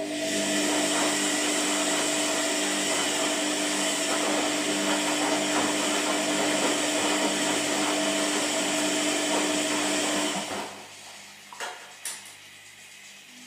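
Electric motor appliance running at a steady speed, a whir with a steady hum and a hiss. It cuts off about ten and a half seconds in, followed by two short clicks.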